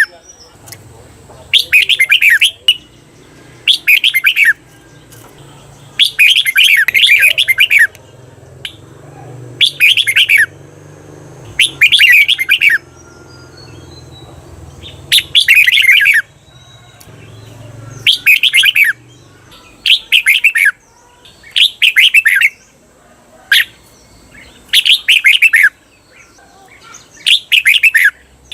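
Red-whiskered bulbul singing short, high, warbling song phrases over and over, about one every two seconds with brief pauses between. This is the doubled 'เบิ้ล' song played to train caged bulbuls.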